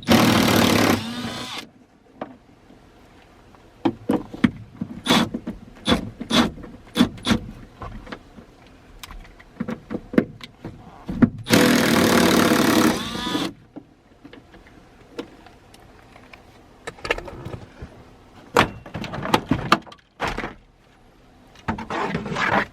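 Small clicks and knocks of gauge-kit parts and packaging being handled, with two loud rushing bursts of about two seconds each, one at the start and one about halfway through.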